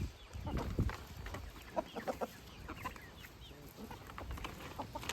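A flock of backyard chickens clucking, with many short, scattered calls. A low rumble sounds in the first second.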